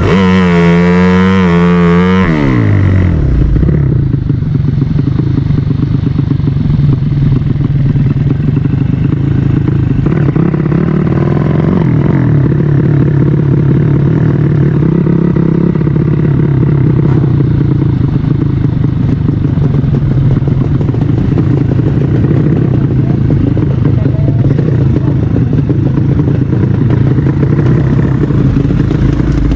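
Drag-race motorcycle engine held at high revs with a wavering pitch, then dropping sharply about two seconds in and settling into a steady idle for the rest.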